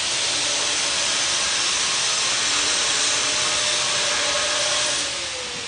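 Angle grinder working metal, a steady harsh hiss over a faint motor whine; about five seconds in the grinding stops and the whine falls in pitch as the disc spins down.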